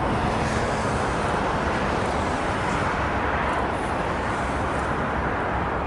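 Jet engines of a heavy airliner at take-off power, a loud, steady rushing noise.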